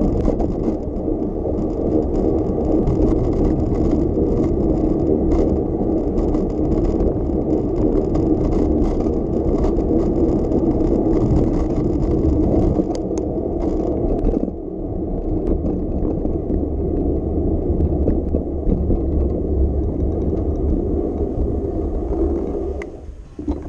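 Bicycle being ridden on city streets: a steady low rumble with small rattles and clicks from the bike. The rattling eases a little past halfway, and the sound drops off near the end.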